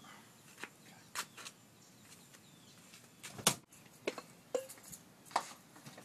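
Scattered knocks and clicks of belongings being handled and shifted while packing a truck's back seat, the loudest knock about three and a half seconds in.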